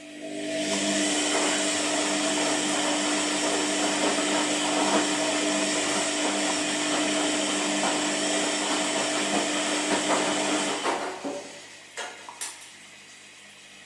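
Washing machine running: a loud whirring with a steady hum starts about half a second in, runs for about ten seconds and stops, followed by two short clicks.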